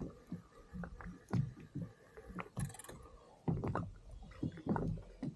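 Water slapping and knocking against a kayak's hull in an irregular series of short, low sounds, with a brief hiss a little past the middle.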